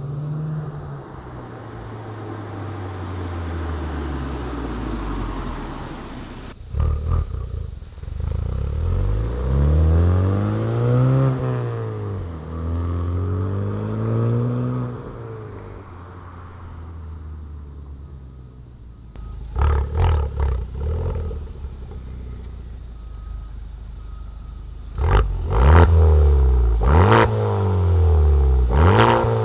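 Honda Civic Type R FK8's turbocharged four-cylinder engine through a Remus valved cat-back exhaust, repeatedly building revs and dropping back, the pitch rising and falling several times. Short sharp cracks come in two clusters, one a little after two-thirds of the way in and another near the end.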